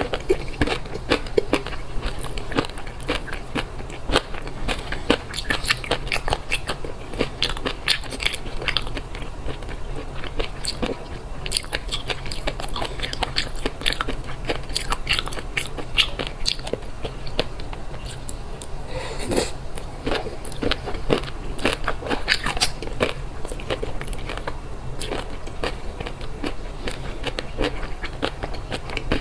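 Close-miked chewing of a mouthful of fish roe: a dense, continuous run of small crunching clicks as the eggs are bitten and chewed.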